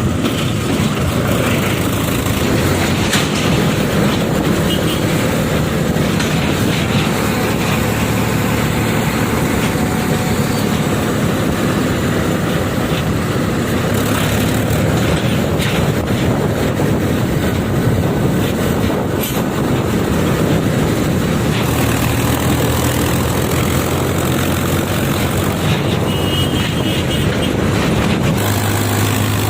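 Heavy diesel engine noise of a JCB 3DX backhoe loader at work, running steadily, with a few short knocks.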